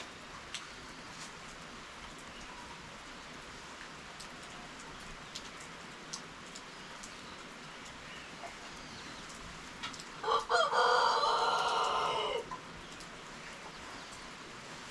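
Steady rain falling, with scattered drips. About ten seconds in a rooster crows once: a couple of short opening notes, then a held call of about two seconds.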